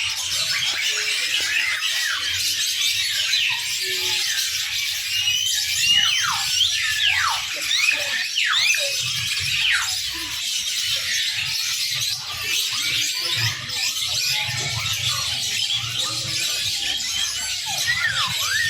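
A chorus of many small songbirds chirping and twittering at once, with repeated sharp, steeply falling whistled notes standing out over the chatter.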